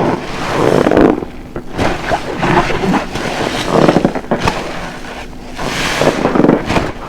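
A large car-wash sponge soaked with dish soap being squeezed over and over, each squeeze a wet, crackling squelch of foam.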